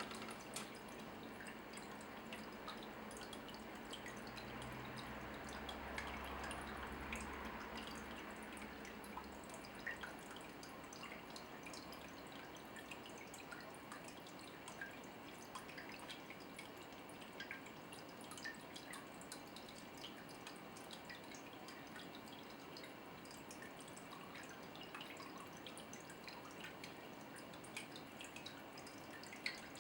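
Faint water dripping: many small, irregular drops over a soft steady trickle.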